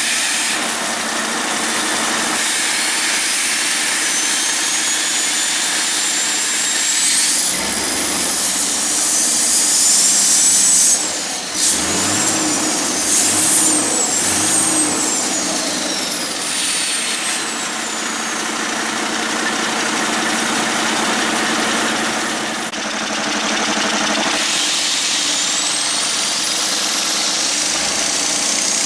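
Detroit Diesel Series 60 12.7 L inline-six diesel engine running, revved up and down several times between about 7 and 16 seconds in, with a high whistle that rises and falls with the revs.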